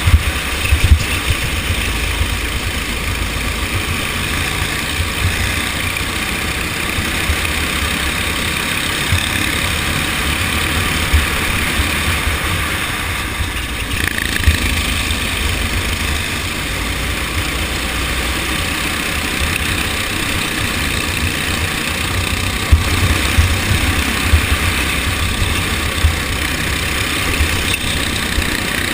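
Go-kart engine running steadily, with a low rumble underneath and a few sharp knocks.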